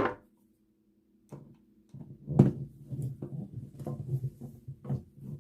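Screwdriver driving the screws back into a wall switch cover plate: an irregular run of small clicks and scraping starting about two seconds in, with one sharper click just after.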